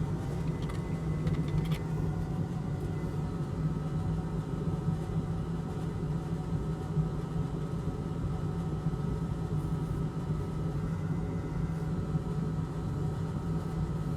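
Steady mechanical hum of a small electric fan or blower, with a low drone, and a few faint clicks in the first two seconds.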